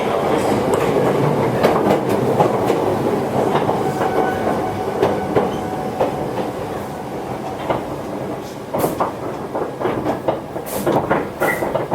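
Toyohashi Railway 1800-series electric train, a former Tokyu car, running on the Atsumi Line, its wheels clicking over the rail joints while the running noise slowly eases as it slows. In the last few seconds sharp separate clicks and knocks stand out.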